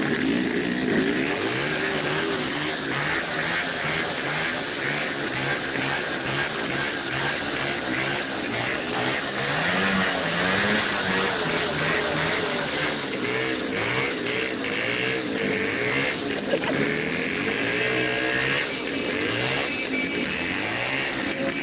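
Jawa two-stroke motorcycle engine held at high revs during a burnout, its pitch repeatedly rising and dipping as the throttle is worked while the rear tyre spins in place.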